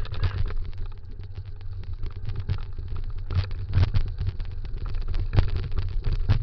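Dog scooter rolling at speed over a dirt trail: a steady low rumble of wheels and wind, broken by frequent rattles and knocks from bumps.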